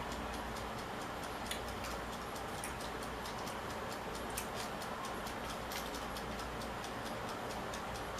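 Eating sounds: faint, irregular mouth clicks and smacks from chewing, several a second, over a steady background hiss.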